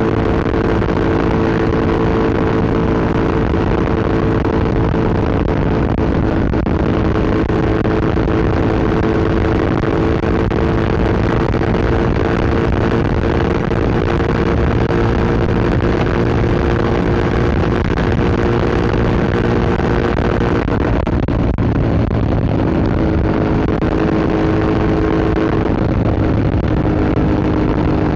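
Yamaha MT-07's parallel-twin engine through an Akrapovic Racing Line exhaust, running at a steady cruise over a constant rushing hiss. About three-quarters of the way through, the engine note drops slightly and holds there.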